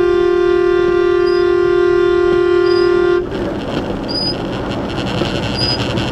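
A vehicle horn sounding one long steady blast of about three seconds on a single held note. It stops abruptly, leaving steady road noise.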